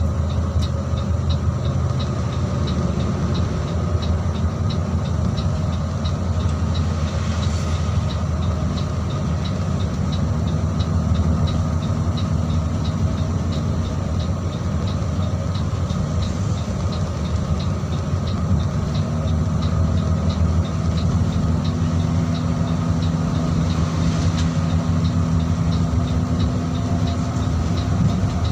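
Mercedes-Benz OH 1626 NG coach's diesel engine running steadily under way, a low hum that shifts slightly in pitch now and then. A quick, regular light ticking runs over it.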